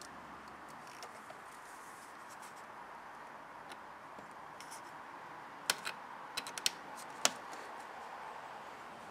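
A handful of sharp clicks and taps a little past halfway, over a faint steady hiss. They are the HT lead being handled and pushed back onto the ignition coil, with the engine not yet running.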